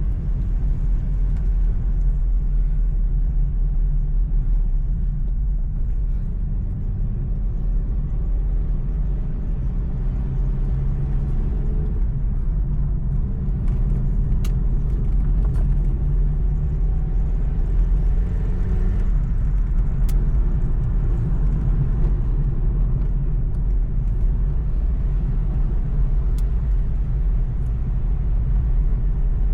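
Steady low rumble of a moving motor vehicle, with a faint engine note that climbs slowly and then drops about two-thirds of the way through.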